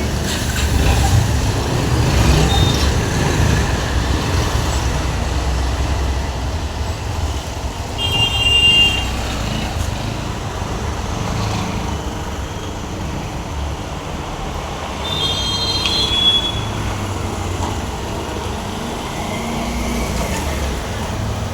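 Bajaj Pulsar NS125's single-cylinder engine running on a test ride through road traffic, heard as a steady low rumble. Two short horn toots sound, one about a third of the way in and one about three quarters through.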